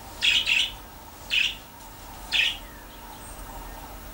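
A bird chirping in short sharp calls about a second apart, the first call doubled, over a faint steady background hiss.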